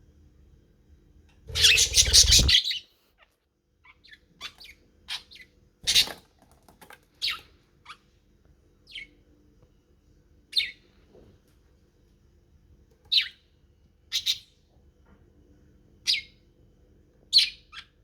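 Pet budgerigars chirping: a loud, rapid burst of sound about two seconds in, then short single high chirps every second or two.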